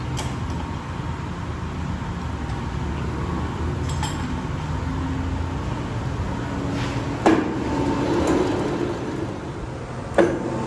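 Workshop machinery running with a steady low hum, broken by four sharp metallic clanks, the loudest about two-thirds of the way in.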